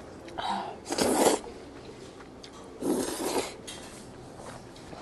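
Close-miked eating sounds of a person eating jajangmyeon: three short noisy bursts, each about half a second long, in the first three and a half seconds.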